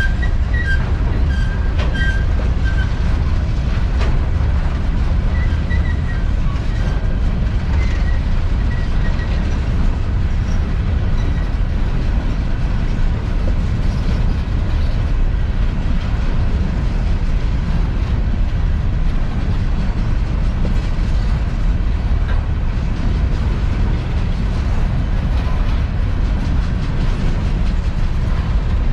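Empty coal train rolling past with a steady rumble of wheels on rail and faint wheel squeal during the first several seconds.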